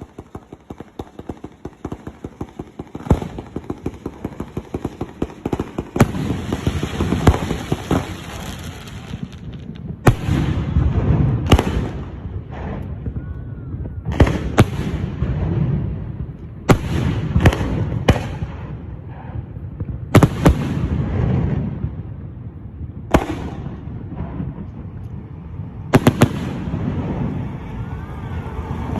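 Fireworks going off: a rapid run of small crackling shots builds up at first. Then come a dozen or so sharp, loud bangs, a few seconds apart and sometimes in quick pairs, with crackle and rumble between them.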